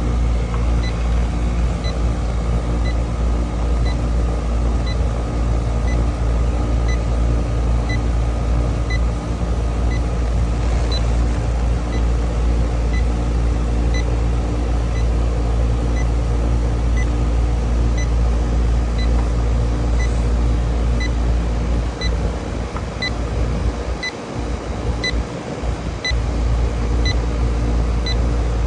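Electronic refrigerant leak detector beeping steadily about once a second, its slow idle rate, not picking up a leak. Under it is the steady hum of the running A/C condenser.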